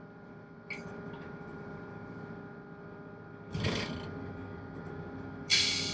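Tugboat engine droning steadily. A click comes about a second in, and short rushing noises come just after halfway and again near the end, the last one the loudest.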